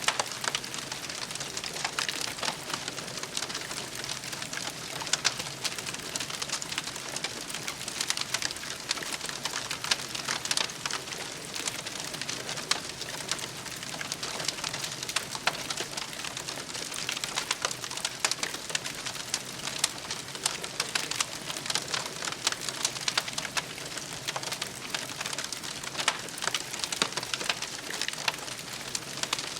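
Wood campfire crackling steadily, with a constant hiss and many small sharp pops and snaps scattered throughout.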